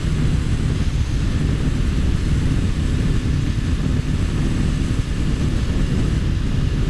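Steady wind rush on the camera microphone over the 2013 Honda CBR500R's parallel-twin engine running, as the motorcycle rides along at speed.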